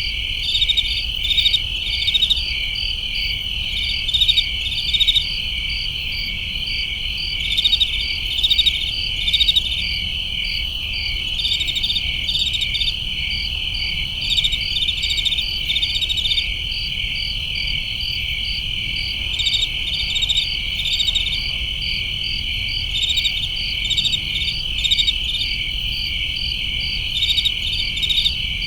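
A chorus of crickets chirping at night: a steady high trill runs throughout, with rapid pulsed chirps coming over it in bursts every second or two.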